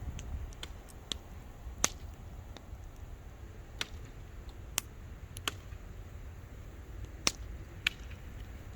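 Wood campfire crackling: sharp, irregular pops, the loudest about two seconds in and again about seven seconds in, over a faint low rumble.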